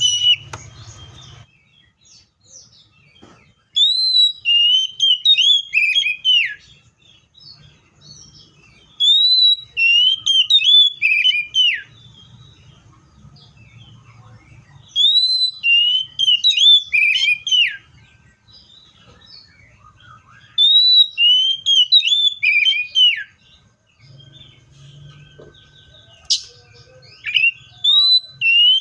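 Seychelles magpie-robin singing: a loud whistled phrase repeated about every six seconds, five times, each an upward-arching note followed by several quick falling whistles. A faint low hum fills the gaps between phrases.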